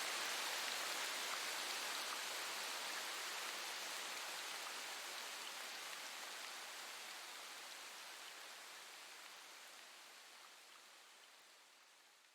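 Steady rain, an even hiss of falling drops, fading out gradually toward silence.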